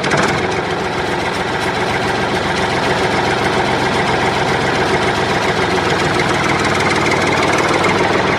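Tractor engine idling steadily with a rapid, even chugging: a full-size tractor recording laid in as a sound effect, not the toy's own motor.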